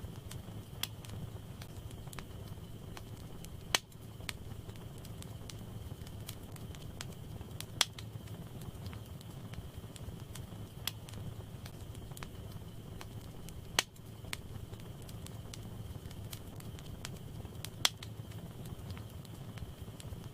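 Wood fire burning in a fireplace: a steady low rumble of flames with scattered crackles and a few sharp, loud pops from the burning logs.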